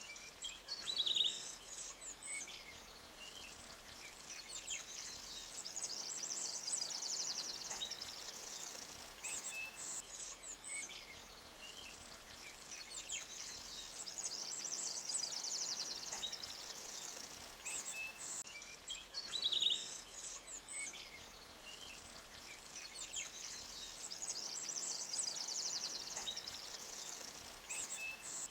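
Forest ambience: birds chirping and insects buzzing in high, shimmering swells that last several seconds, over a faint even background of running water. A louder bird call stands out about a second in and again midway.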